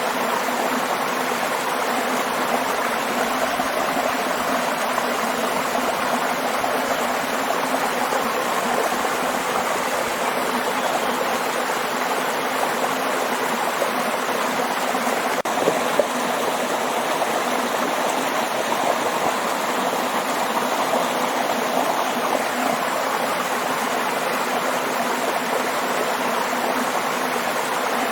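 Waterfall water rushing and splashing steadily, an even wash of noise with no pauses. A single short click sounds a little past halfway.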